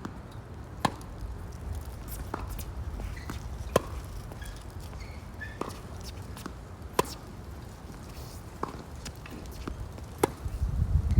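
Tennis rally: a tennis ball struck back and forth by racquets, seven sharp hits about a second and a half apart. Wind rumbles on the microphone throughout and gusts louder near the end.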